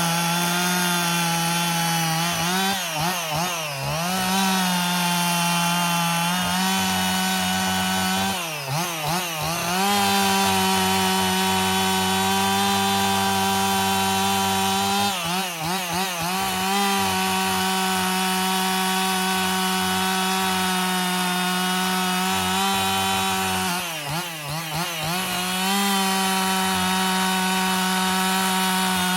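Husqvarna 55 two-stroke chainsaw running at high revs while bucking a log. Its steady pitch wavers and dips briefly about four times before coming back up.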